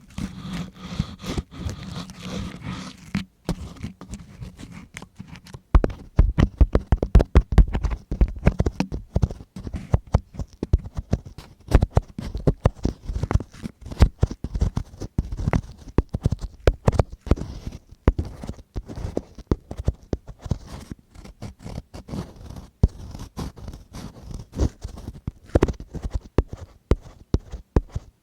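ASMR ear-cleaning sounds: a tool scraping and rubbing right against the microphone in quick, irregular scratchy strokes, louder and fuller from about six seconds in.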